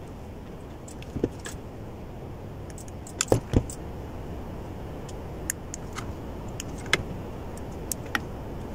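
Small metallic clicks and clinks of graphics-card parts and tools being handled during reassembly, with two louder knocks about three and a half seconds in, over a steady background hiss.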